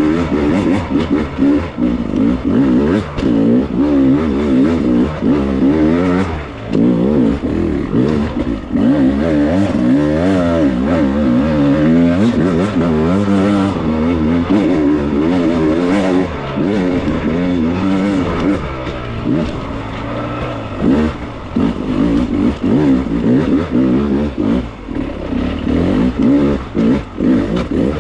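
Beta 300 two-stroke dirt bike engine being ridden hard over rough terrain, its revs rising and falling constantly with the throttle.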